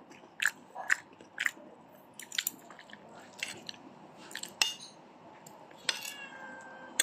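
Chewing and biting chicken adobo with rice: wet mouth smacks and clicks about twice a second, with a brief squeak about six seconds in.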